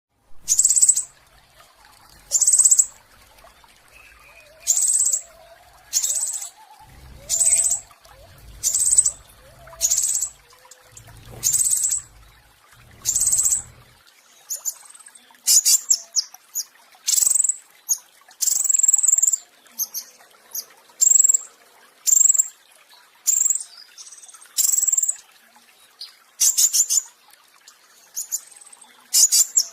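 A petis raja songbird singing its high-pitched 'roll tembak' song. It begins as sharp calls about once a second, and about halfway through turns into quicker clusters of rapid notes.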